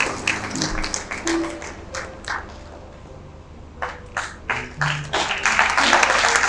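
Audience clapping, thinning to a brief lull about halfway through, then picking up again into fuller applause near the end.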